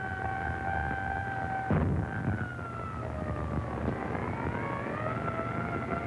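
Air-raid siren wailing, its pitch holding, sagging and then rising again, as a warning of an air raid. A heavy thump sounds about two seconds in.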